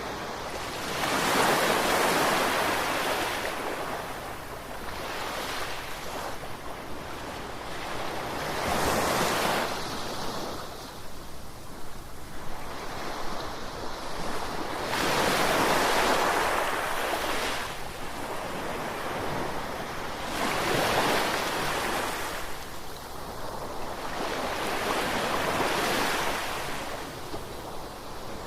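Ocean waves breaking and washing up the shore, swelling and fading in repeated surges every few seconds, with some wind on the microphone.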